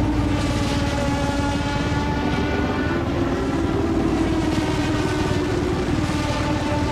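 1988 Formula One racing engine running at high revs, a steady pitched drone whose pitch climbs slowly through the middle and eases slightly near the end.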